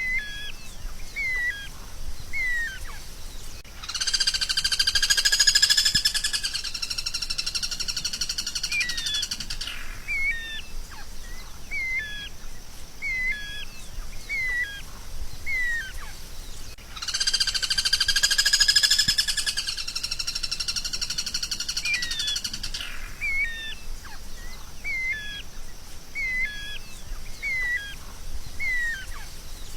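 Songbird singing: short, hooked chirps about once a second, broken twice by a loud buzzing trill lasting about six seconds.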